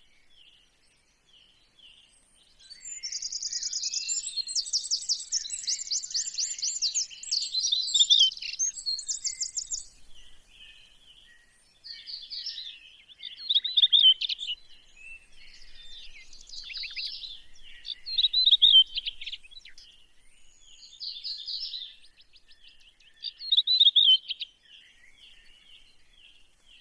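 Birds singing: a long rapid trill for several seconds near the start, then short song phrases repeated every few seconds, over faint steady chirping.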